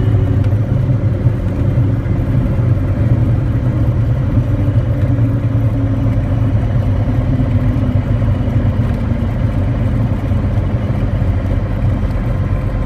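Cirrus SR22T's turbocharged six-cylinder piston engine and propeller droning steadily in flight on approach.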